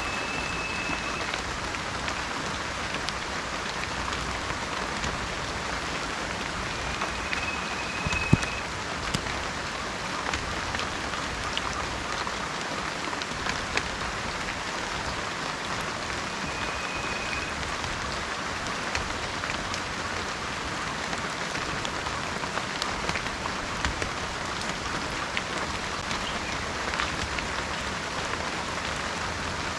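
Heavy rain falling steadily, a dense even hiss with many scattered sharper drop impacts and one louder tap about eight seconds in. A faint, thin, high tone sounds three times, each about a second long.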